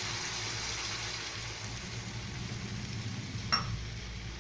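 Chicken pieces sizzling in a pan with a steady hiss as they cook with a little water, and one short clink about three and a half seconds in.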